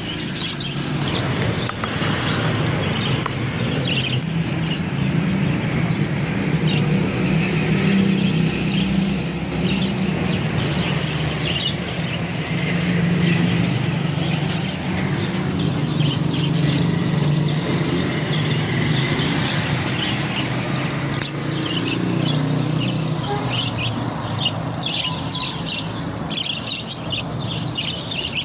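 Many caged birds chirping and twittering over one another, over a steady low drone that fades out about three-quarters of the way through.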